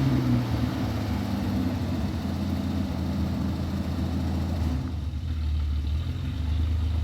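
Four-wheel-drive vehicle's engine running steadily at low revs.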